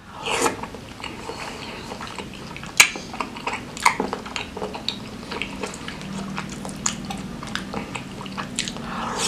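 Close-up wet chewing of a mouthful of beef tetelan (fatty beef trimmings) in spicy sauce: steady smacking and squelching with many sharp clicks, the loudest a little under three and four seconds in.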